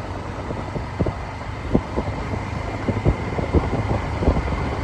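A vehicle on the move, heard from on board: a steady low rumble with many short, irregular knocks and rattles throughout.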